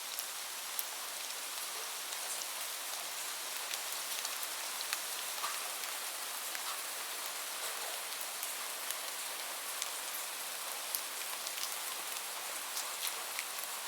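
Steady rain, an even hiss with many separate drops ticking sharply close by.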